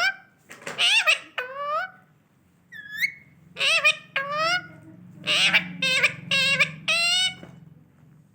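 Pet parrot calling: a run of about ten short, high-pitched squawking calls that bend in pitch, with a brief whistle-like rising call about three seconds in.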